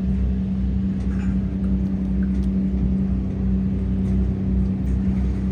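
Tugboat engine running steadily while towing a cargo barge against the current, a constant hum over a low rumble.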